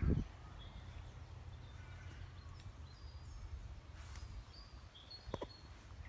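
Woodland birdsong: several small birds giving short, high chirps and whistles over a low steady rumble. A thud right at the start and a sharp click about five seconds in.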